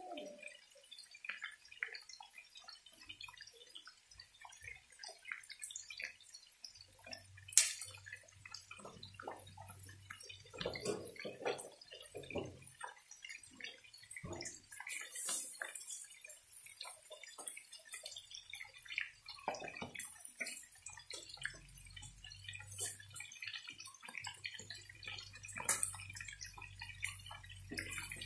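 Chicken pieces and potatoes frying in oil in a pan, with scattered, irregular pops and crackles and one sharper pop about seven and a half seconds in.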